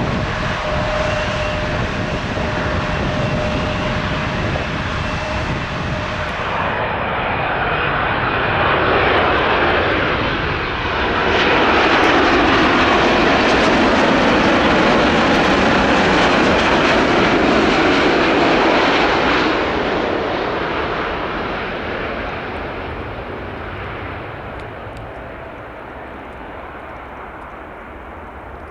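Jet airliner engines: a steady jet sound from a departing Airbus A330-300 for the first several seconds, then, after a cut, a Boeing 787-9 on approach to land that swells to a loud peak as it passes and slowly fades away.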